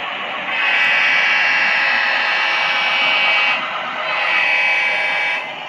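Sound-equipped HO scale model locomotive blowing its warning signal through its small onboard speaker: a long buzzy blast, then a shorter one about four seconds in.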